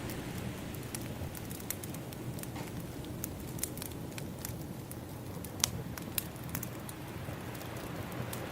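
Wood fire crackling with scattered sharp pops, the loudest a little past halfway, over a steady wash of ocean waves that swells near the start and end.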